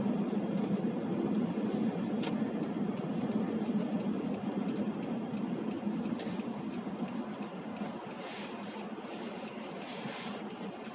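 Road and engine noise heard from inside a moving car's cabin: a steady low rumble with scattered light knocks and ticks, easing a little towards the end.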